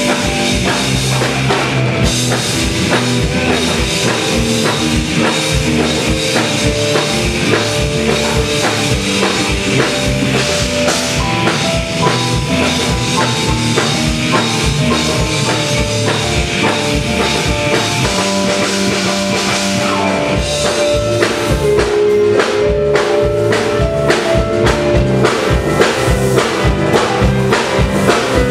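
Rock band playing live, an instrumental passage without vocals: piano, bass and drum kit, with the drums playing a steady beat that grows busier about twenty seconds in.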